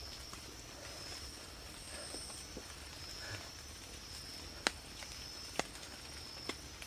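Night insects chirping in a steady, high, pulsing drone, with three sharp clicks in the second half.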